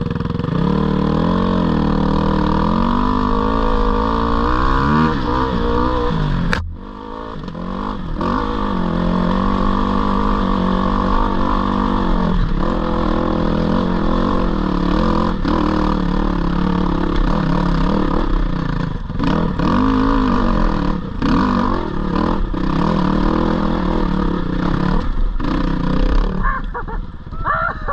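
Dirt bike engine, plausibly the GPX 450R four-stroke single, working up a steep rocky climb, its pitch rising and falling as the throttle is worked. There is one sharp crack about six seconds in and scattered clicks of knocks on rock.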